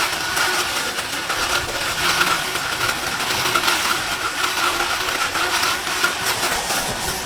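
Powered hedge trimmer running steadily while shaping bushes.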